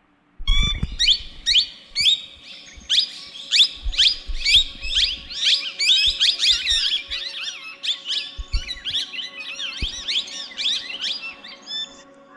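Many small birds chirping and twittering together, with quick high notes sweeping downward and overlapping densely. It starts suddenly about half a second in and thins out near the end, with a few brief low bumps underneath.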